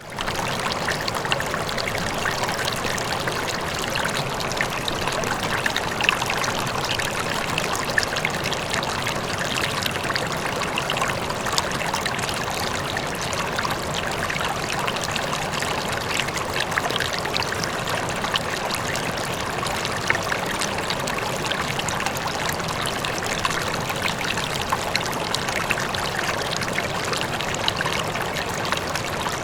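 River water flowing: a steady rush dotted with many small splashes and trickles, with a faint waterfall in the mix. It fades in at the very start, then holds level.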